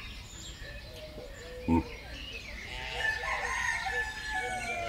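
Several birds calling in forest ambience. A brief low thump comes about two seconds in, and from about halfway a run of repeated arching calls joins higher chirps.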